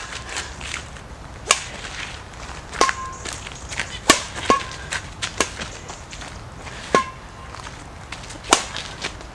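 A badminton racket, the Li-Ning Windstorm 700, striking a shuttlecock over and over. There are about eight sharp hits, a second or so apart, and several end in a short ringing ping from the strings.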